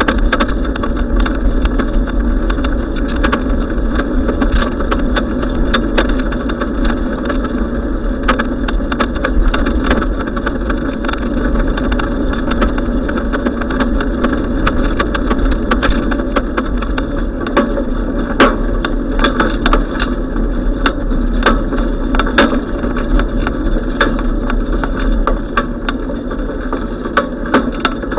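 Steady rumble of wind and road noise from a moving bicycle, with frequent sharp clicks and rattles.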